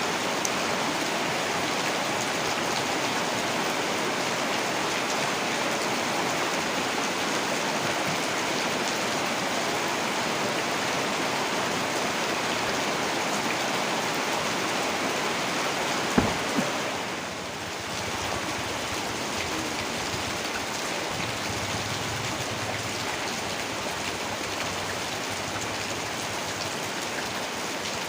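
Heavy rain falling steadily in a dense hiss. A little past halfway, two sharp clicks stand out, then the rain briefly dips and carries on slightly quieter.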